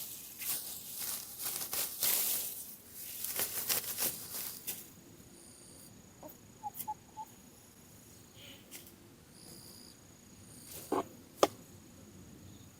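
Rustling and crackling of foliage being handled for the first few seconds. After that, faint insects chirp high, with two sharp clicks near the end.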